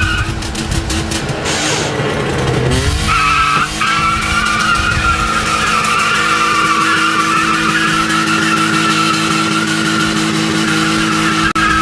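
Motor vehicle running loud with a long, wavering high squeal of skidding tyres; the engine note rises about three seconds in.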